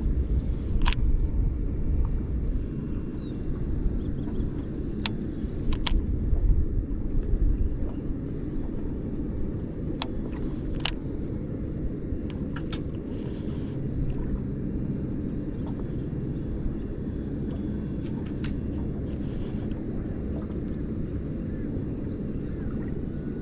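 Wind buffeting the microphone, a low uneven rumble that is strongest in the first several seconds, with a few short sharp clicks scattered through.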